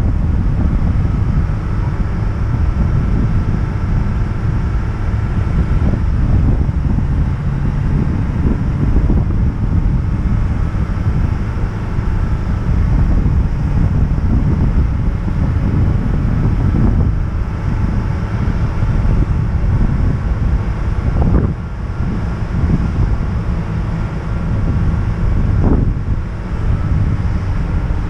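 Heavy wind buffeting the microphone of a vehicle-mounted camera while driving, a loud, steady low rumble with a faint thin whine above it.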